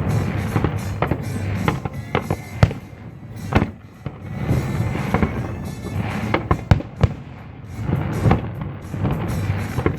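Display fireworks going off: a fast string of sharp bangs and crackles, with a few much louder single bangs about two and a half, three and a half and seven seconds in, over music.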